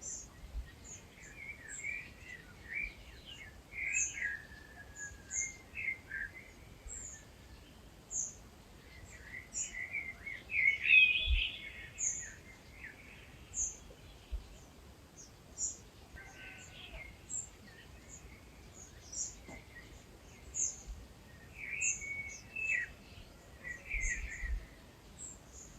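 Dawn chorus of several wild birds. Varied warbling song phrases come and go over a thin, high note repeated about once a second.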